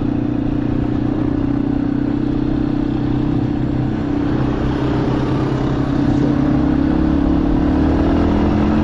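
Motorcycle engine running at cruising speed, heard from the rider's onboard camera over road and wind noise, its pitch rising a little partway through as the bike speeds up.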